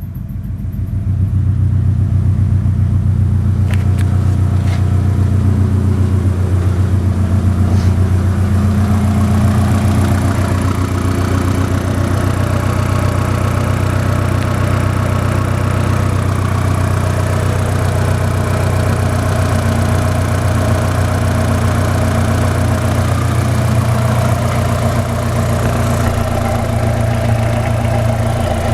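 Mitsubishi Pajero iO's 1.8-litre 4G93 four-cylinder engine idling steadily, settled after a rev.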